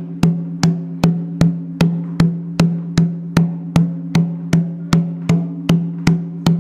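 Atabaque hand drum played as a one-and-one roll: single open hand strokes alternating between the hands in a steady, even pulse of about two and a half strokes a second, each ringing with a low drum tone.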